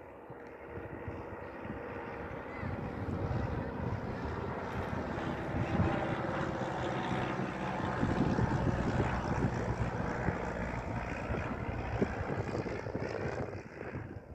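Light aircraft's propeller engine running steadily as the plane passes, growing louder toward the middle and falling away near the end.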